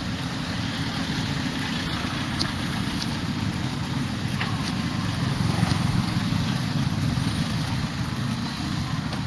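Road traffic passing close by: a steady low rumble of car and motorbike engines and tyres.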